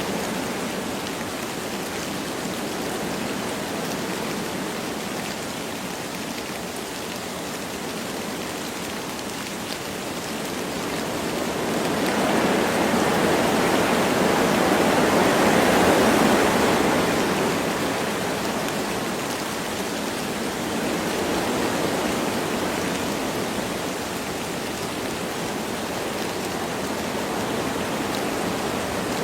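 Wind blowing through forest trees with light rain, a steady rushing hiss that swells into a stronger gust about halfway through and then eases back.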